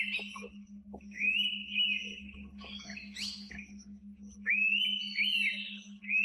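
Indian pitta calling: loud whistled phrases that rise sharply and then hold, repeated about every two seconds. About halfway through, a higher, busier run of bird notes comes in. A steady low hum runs underneath.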